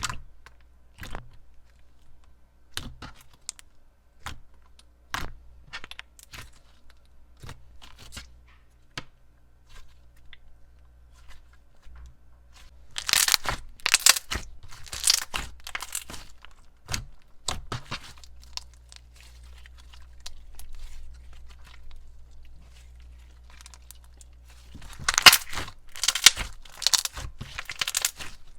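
Thick glossy slime mixed with foam beads being squished and stretched by hand, with scattered sticky clicks and pops. Two spells of denser, louder crackling and popping come about halfway through and near the end.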